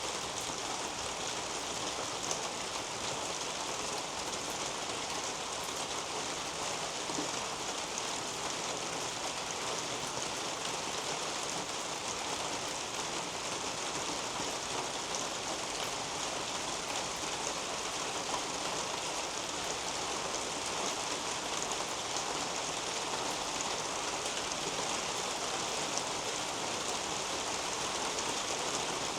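Steady rain falling on garden leaves and a roof overhead: an even hiss dotted with many small drop ticks.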